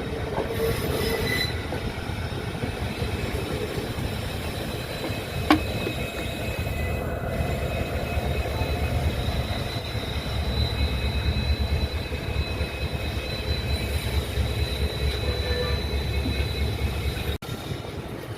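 Circar Express passenger train running along the track: a steady rumble of the moving coaches with a thin, high wheel squeal over it, and one sharp knock about five and a half seconds in.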